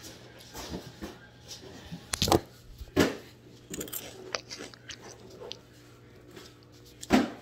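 Chewing of candy and snack food close to a phone's microphone, with small mouth clicks and a few louder knocks from the phone being handled.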